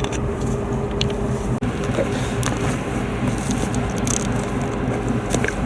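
A steady low engine hum, with a few light clicks over it.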